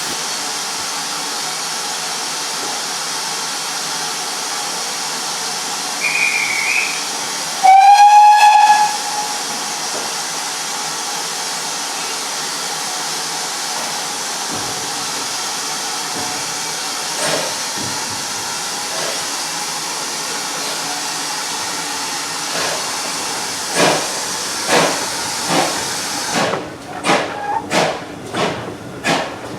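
A GWR steam tank locomotive hisses steadily as it stands with steam up. After a brief high whistle it sounds its own whistle once, loud and slightly rising, for about a second. Near the end it starts away with slow exhaust beats that quicken.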